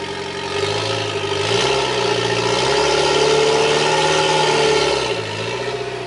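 Car engine revving: it steps up to higher revs about a second and a half in, holds there, and drops back toward idle near the end.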